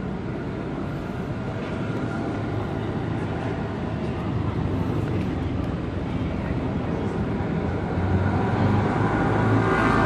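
Steady street noise of passing traffic, a low hum that grows somewhat louder toward the end.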